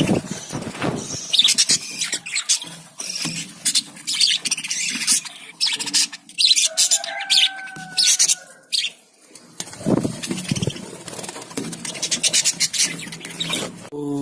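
A colony of budgerigars chattering, with a dense run of rapid, shrill chirps and squeaks that thins out briefly about nine seconds in.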